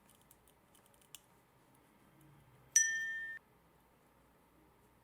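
A single bright ding with a clear ringing pitch, sounding suddenly a little before the middle and cut off after about half a second, with a few faint small clicks before it.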